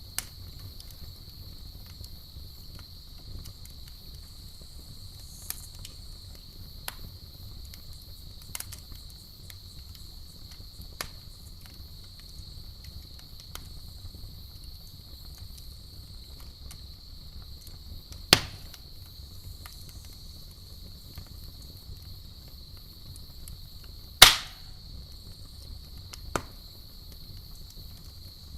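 Wood campfire crackling with scattered sharp pops: a loud pop about two-thirds of the way through and a louder one a few seconds later, over a low steady rumble from the fire. Crickets chirr steadily in the background.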